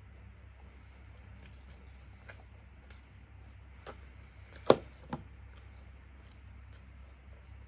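Quiet eating at a table: faint chewing and small scattered clicks over a low steady hum. About four and a half seconds in comes a sharp knock, followed half a second later by a smaller one.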